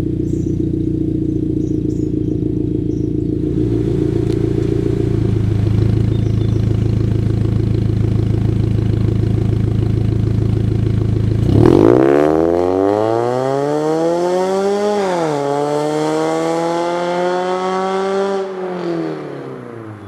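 Exhaust of a 2008 Mazda MX-5's four-cylinder engine, running through an aftermarket header, a straight midpipe without silencer and a Roadster Sport II muffler. It gives a steady low drone, then revs climb hard, drop once as in a gear change, and climb again before falling away and fading near the end.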